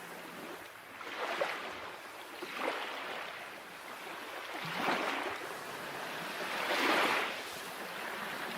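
Small waves breaking and washing in, a hissing swell of water noise that rises and falls every couple of seconds.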